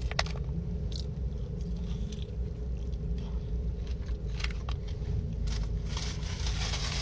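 Close-up chewing and biting of Taco Bell Nacho Fries, soft wet mouth sounds with small scattered clicks, over a steady low hum.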